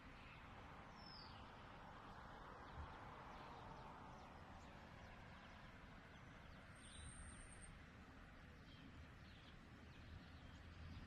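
Near silence: faint outdoor background hiss with a few faint, short, high bird chirps, one about a second in and a thin high whistle about seven seconds in.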